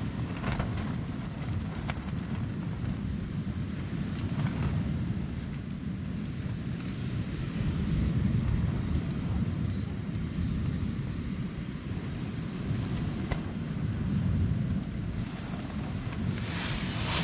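Low rumble of strong wind and surf on the rocks, swelling and easing over several seconds, with an insect's fast, even, high-pitched chirping through most of it.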